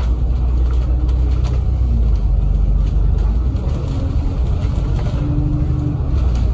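Inside a moving double-decker bus: a steady low engine and road rumble, with light rattles of the body.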